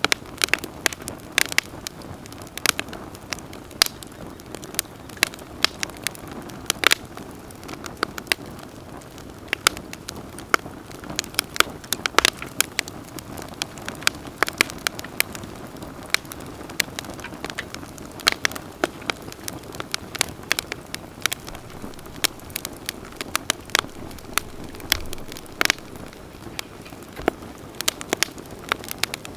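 Wood campfire crackling: irregular sharp pops and snaps, several a second at times, over a soft steady hiss of burning.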